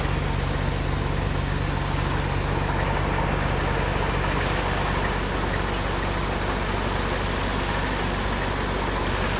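Combine harvester's engine running steadily, with a high hiss over it that swells and fades twice.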